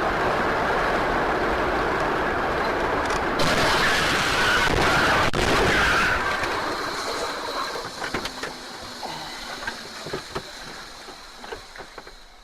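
Loud rushing vehicle noise that swells about three and a half seconds in, then fades away over the second half with a few scattered knocks.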